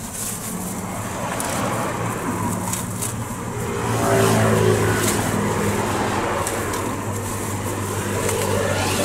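A motor vehicle's engine running with a steady low hum, swelling about four seconds in with a falling pitch, as a vehicle passes. Scattered light clicks over it.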